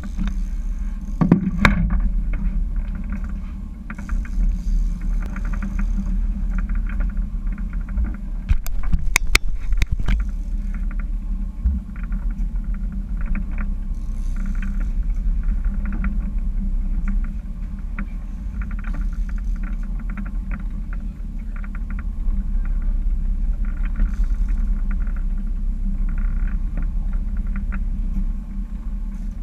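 Steady low rumble of a boat's engine heard on board, with scattered rattling and a few sharp knocks around nine seconds in.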